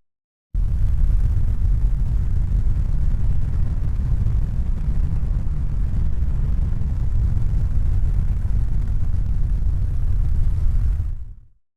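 A steady, deep rumbling noise with no distinct tones. It starts abruptly after a brief silence and fades out near the end.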